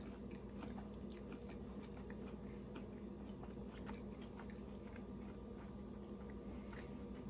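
A person chewing al dente Italian-cut green beans: faint, scattered crunching clicks from the mouth. Under it runs a steady low hum.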